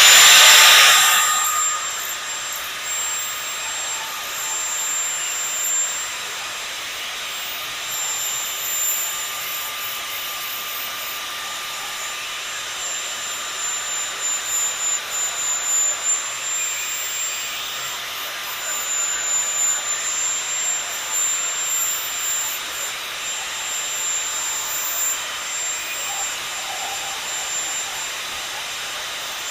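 Steady machine noise: an even hiss with a thin high whine. It is loudest in the first second or so, then holds level.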